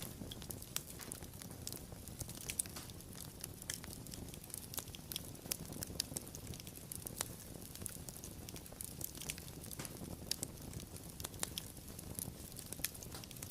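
Fire crackling: a continual scatter of sharp pops and snaps, several a second, over a low, soft rumble of the flames.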